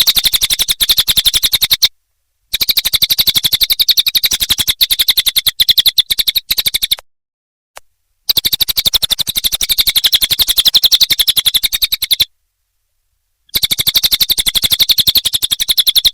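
Cililin singing in rapid trills: sharp notes repeated about ten a second. The trills come in bouts of about four seconds, broken by pauses of about a second.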